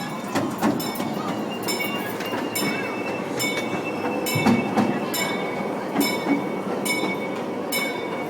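Zoo ride train's cars rolling on the track, with a regular metallic clack about once a second over a steady rumble and a faint high wheel squeal.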